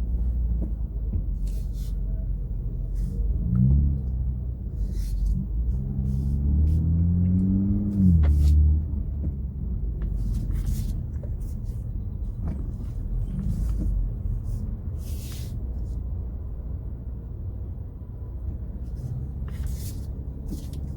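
Car engine running with a low steady rumble, revving up twice: briefly about four seconds in, then in a longer climb from about six to eight seconds in, the loudest part.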